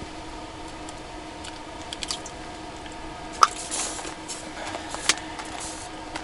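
Handling noises in a small space: a few sharp clicks and short rustles over a steady hum, the loudest click about halfway through.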